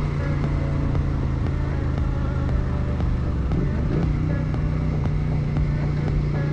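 Yamaha TW200 motorcycle engine running at a steady cruise with wind and road noise, heard from the rider's helmet. About three and a half seconds in, the engine note dips briefly and picks back up.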